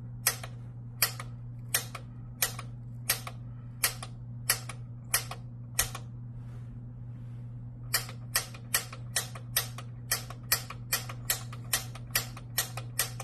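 Piezo sparker on a Bradford White gas water heater's gas control clicked over and over to light the pilot: sharp clicks about every two-thirds of a second, a pause of about two seconds near the middle, then faster clicks, a little over two a second. A steady low hum runs underneath.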